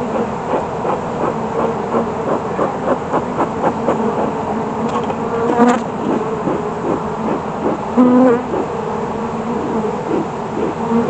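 Honeybees buzzing around an open hive, their wing tones wavering and gliding as individual bees fly past close by. A single sharp knock about six seconds in.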